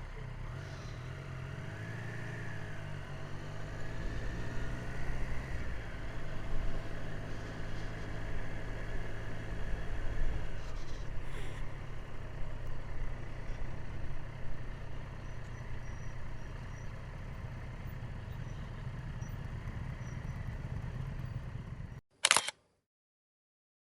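Vehicle engine and road noise while driving, a steady low drone with a little rise and fall in pitch. It cuts off abruptly near the end after a brief loud burst.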